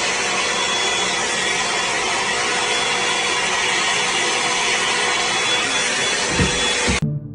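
Steady machine noise: a hissing, whirring run with a faint steady whine in it, which cuts off suddenly about seven seconds in.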